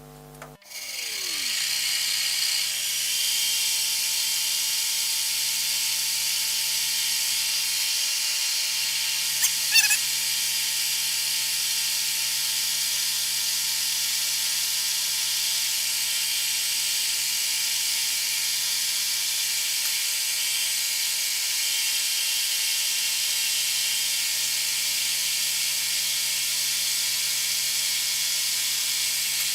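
Bridgeport series one milling machine running steadily while centre-drilling a steel tee-nut block: a constant low hum with a high hiss. There is a brief squeal about ten seconds in.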